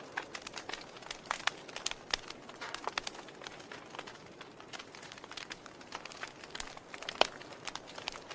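Wood fire burning in a fireplace, crackling with irregular sharp pops over a soft steady hiss; one loud pop about seven seconds in.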